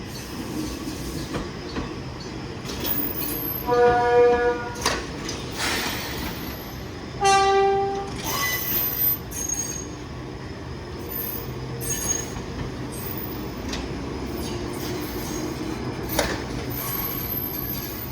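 Enoshima Electric Railway train running past, sounding two short horn blasts about four and seven seconds in, the second lower in pitch. Under them is a steady rumble with scattered clicks from the wheels on the rail.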